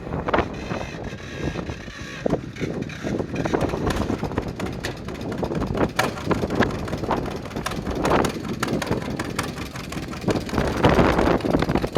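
John Deere 50 tractor's two-cylinder engine running, its exhaust popping in an uneven stream.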